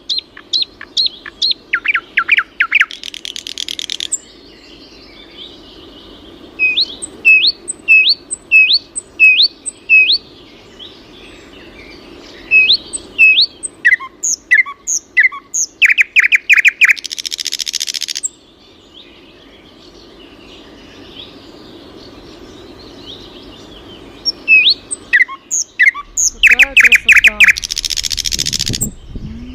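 A songbird singing a varied song: runs of quick rising whistled notes, fast trills and loud buzzy phrases, broken by short pauses. A faint steady low hum runs underneath.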